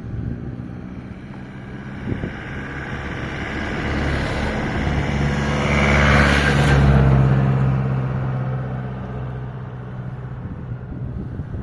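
A road vehicle's engine running, growing louder to a peak about six to seven seconds in and then fading again, as a vehicle passes close by.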